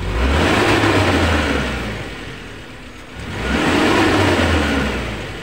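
Suzuki Carry Futura pickup's four-cylinder engine revved twice with the throttle, each rev rising quickly and then falling back toward idle. It picks up straight away with no hesitation, the misfire on cylinder 3 cured by a new spark plug.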